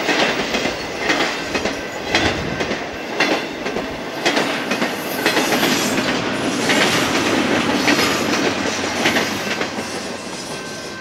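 Intermodal freight cars rolling past at speed, wheels clacking over the rail joints in regular strokes about once a second over a steady rumble. The sound dies away near the end as the last car passes.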